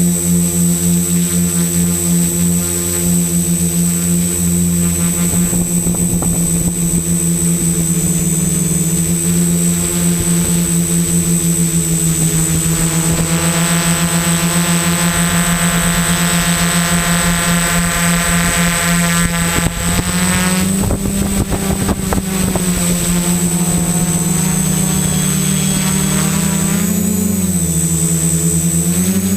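XAircraft X650 Pro quadcopter's brushless motors and propellers droning steadily in flight, with a steady high whine over the hum. Near the end the pitch briefly rises and falls twice as the throttle changes.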